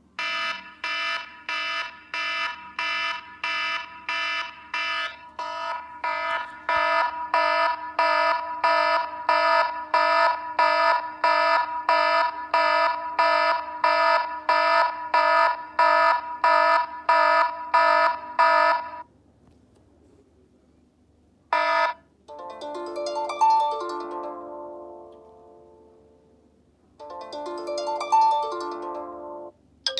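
iPhone iOS 7 ringtones and alert tones playing in turn. First an alarm-like pattern of rapid beeps, just under two a second, runs for about nineteen seconds and cuts off. After a short pause come a brief tone and two chiming tones that each fade away.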